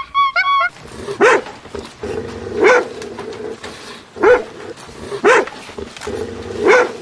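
A dog barking five times, one bark about every second and a half.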